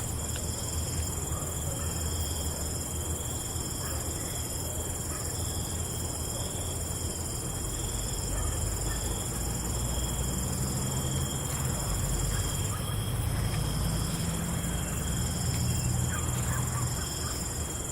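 Night insect chorus of chirping crickets: several steady high-pitched trills overlapping, over a low rumble that grows stronger in the second half.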